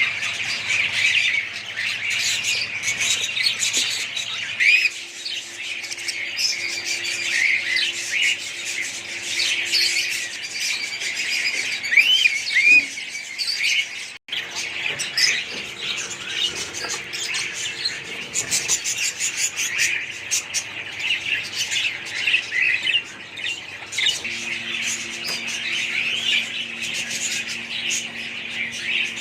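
A flock of small pet parrots chirping and squawking together in a continuous, overlapping chatter, broken by a brief gap about halfway through.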